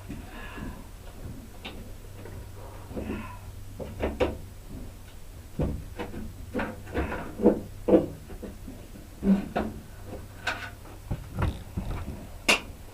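Irregular knocks and clanks, some ringing briefly, as a nailed metal strip is pried off wooden boards.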